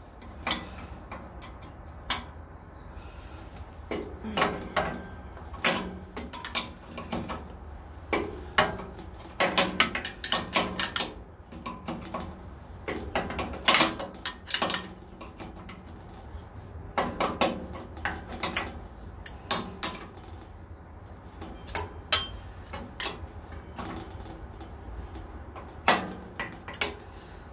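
Metal wrench and bolts on a 14-inch bandsaw's riser block kit clinking and knocking irregularly as the bolts are worked. The clinks come in clusters over a low steady hum.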